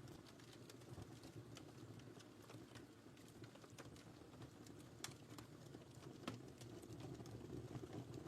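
Wood fire crackling faintly: scattered sharp pops and snaps over a low, steady rumble of burning, with the loudest pop a little past the middle.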